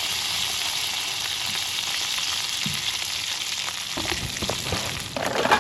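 Butterflied lobster tail frying in melted butter in a pan, a steady sizzle. A few clicks and a clattering knock come near the end.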